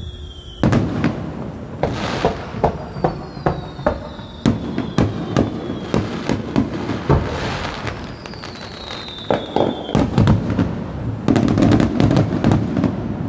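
Aerial firework shells bursting at close range in a rapid run of sharp booms. High whistles slide down in pitch between the bursts, and there is a dense crackling near the end.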